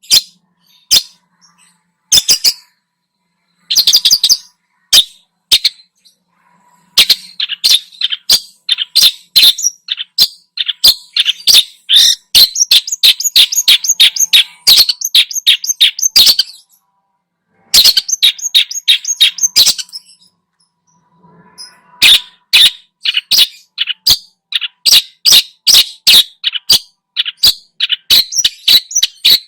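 Long-tailed shrike singing: bouts of rapid, loud, harsh chattering notes, with short pauses between bouts.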